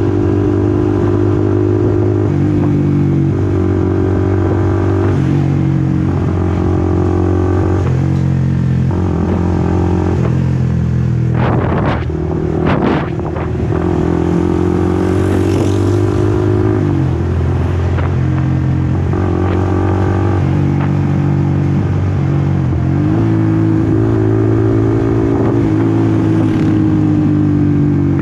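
Honda CBR150R V3's single-cylinder engine running while the bike is ridden, its pitch rising and falling several times with throttle and gear changes. About twelve seconds in the engine note briefly drops, with a few sharp clicks.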